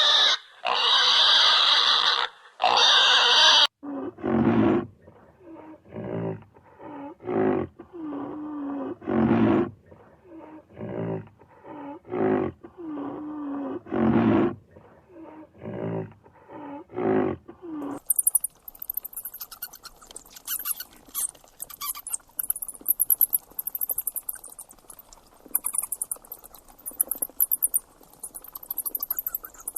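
A run of different animal calls. First loud drawn-out calls, then a long series of short, low, roar-like calls about once or twice a second, then from just past the middle a fast, high-pitched clicking chatter.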